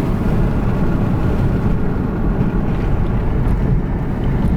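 Steady rumble of a car driving slowly, engine and tyre noise heard from inside the cabin.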